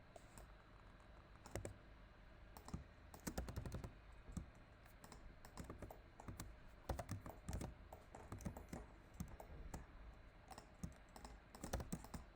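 Keys and mouse buttons clicking in irregular short runs as a computer is worked with shortcuts, faint against a low steady hum.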